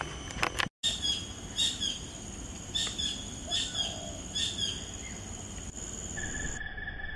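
Wild birds giving short, repeated chirping calls, about one every half-second to second, over a steady high-pitched background hum. The sound drops out briefly just under a second in.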